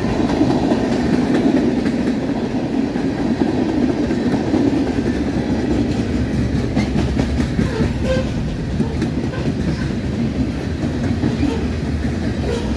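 Freight train cars rolling past: a steady rumble of steel wheels on rail, with clacking as the wheels cross rail joints.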